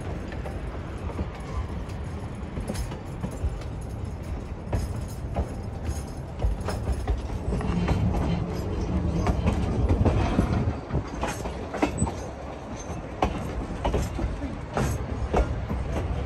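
Narrow-gauge passenger train running on the rails, heard from on board: a steady low rumble with sharp wheel clicks over the track. The clicks come more often from about halfway through.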